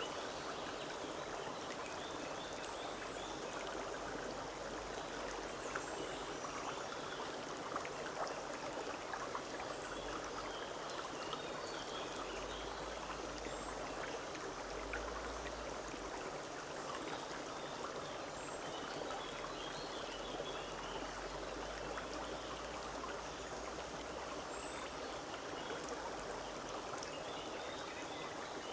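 Forest stream babbling steadily over stones, with small birds chirping now and then above the water.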